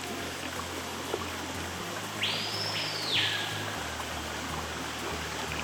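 Steady rush of stream water under background music with a low bass line that steps about once a second; about two seconds in, a single high tone rises, holds for about a second, then falls away.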